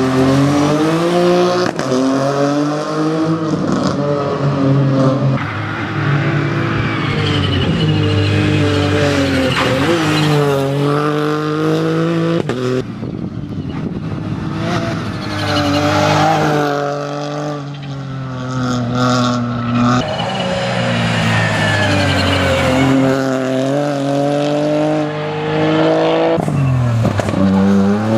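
Rally car engine working hard through the gears. Its pitch climbs under acceleration, then falls at each gear change or lift-off, repeating many times.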